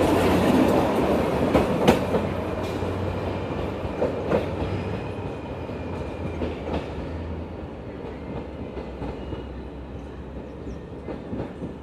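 Metre-gauge passenger coaches rolling away along the track, their wheels clacking over rail joints every couple of seconds. The rumble fades steadily as the train moves off.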